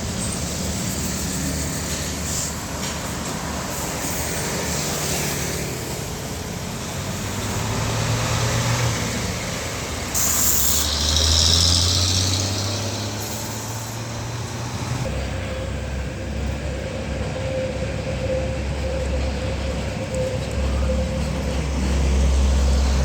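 Heavy diesel trucks running past on a road, their engine notes rising and falling, with a short burst of hiss about ten seconds in.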